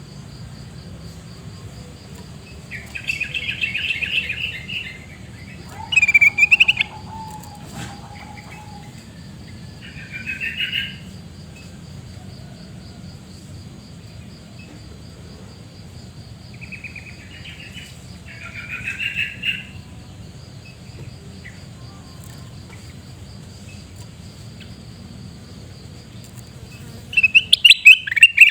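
Kutilang emas bulbul giving short bursts of harsh, chattering calls a few seconds apart, six or so in all, loudest about six seconds in and again near the end. A steady high insect drone runs underneath.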